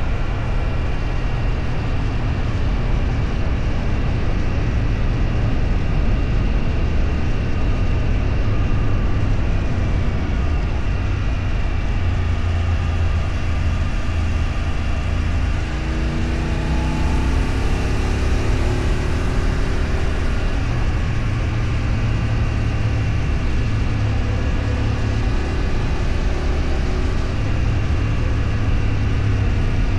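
Engine and road noise of a motor vehicle under way, a steady low rumble. Just past halfway the sound dips briefly, then the engine's pitch climbs for a few seconds as it speeds up again.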